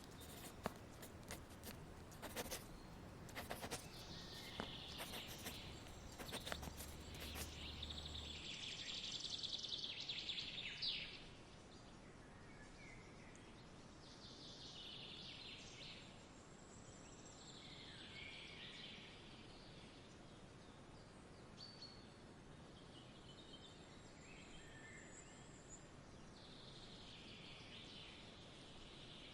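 Faint outdoor ambience with birds chirping now and then over a steady soft hiss. A run of sharp clicks and crackles fills the first eight seconds or so.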